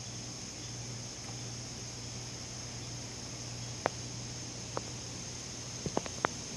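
Steady high-pitched insect chorus over a low steady hum, with a few sharp clicks in the second half.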